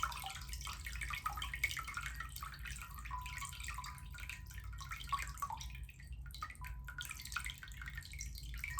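Water being worked for ASMR: a continuous patter of small splashes and drips, over a faint steady low hum.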